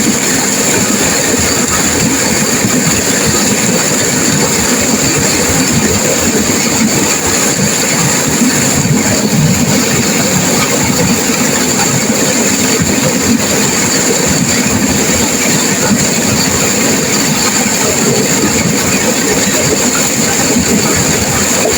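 Turbulent river water rushing and crashing over rocks, a loud, steady roar that doesn't let up.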